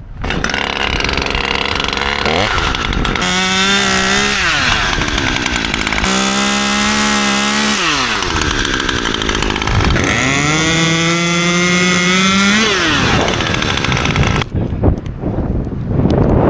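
Chainsaw running while cutting pine branches, revved to a high steady pitch three times and dropping back between cuts; it stops about two seconds before the end.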